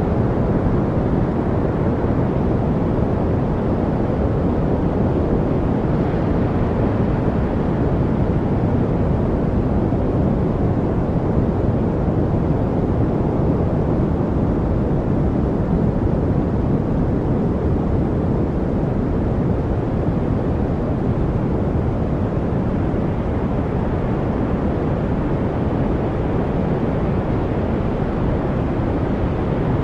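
Steady, unchanging noise, deep and muffled rather than hissy, with no bird calls or trickles standing out from it.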